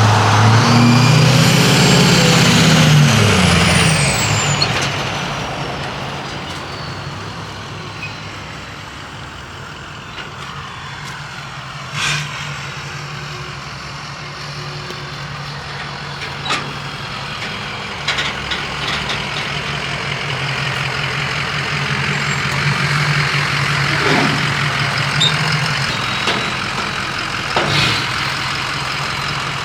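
A heavy vehicle's engine running steadily with road noise, and a few sharp knocks along the way. It opens with a louder layered sound and a falling whistle that fade out after about four seconds.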